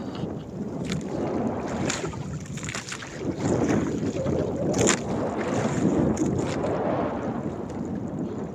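Small fishing boat under way while trolling: wind buffets the microphone and water rushes and slaps at the hull in an uneven noisy wash, with occasional sharp splashes, over the engine running beneath.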